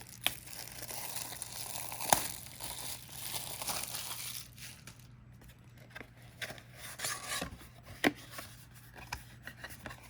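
Packaging on a box of card decks crinkling and tearing as it is opened, with a few sharp taps and clicks.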